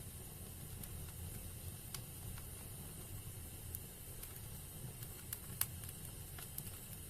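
Wood fire burning in a fireplace: scattered crackles and sharp pops over a low steady rumble, with the loudest pop a little past halfway.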